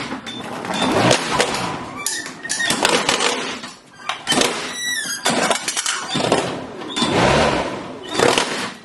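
Lawnmower blade smashing and shredding plastic toys: repeated bursts of cracking and breaking, with a brief lull about four seconds in.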